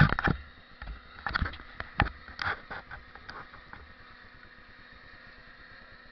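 Quadcopter knocking and rattling against the ground in a hard landing in wind. Loud knocks open the run, smaller rattles follow for about three more seconds, and then only a faint steady hiss is left.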